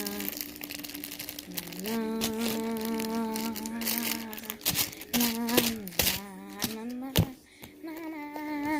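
A girl humming a tune in long held, wavering notes, with the clicks and crinkles of hands handling things around her.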